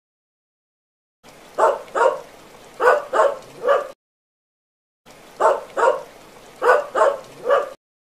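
A dog barking: two identical runs of five barks, each run over a faint hiss and separated by about a second of silence.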